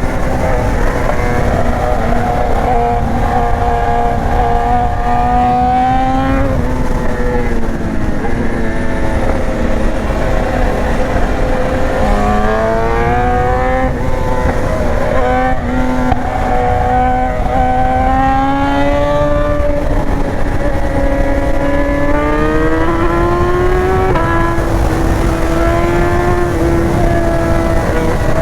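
BMW S1000R's inline-four engine under way, its pitch climbing slowly and then dropping or stepping several times as the rider shifts and works the throttle, over a steady rush of wind noise.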